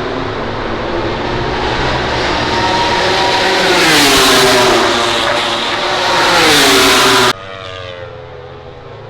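MotoGP racing motorcycle engine at high revs, growing louder as it comes close, with its pitch falling twice. About seven seconds in the sound cuts off abruptly, leaving a fainter bike engine revving further off.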